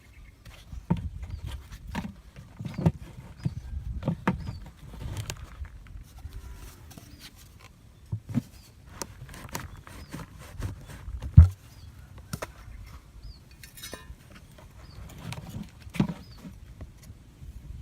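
Irregular knocking, rustling and thumping, with the loudest knock a little past the middle. Behind it a faint, short, high bird call repeats about once a second.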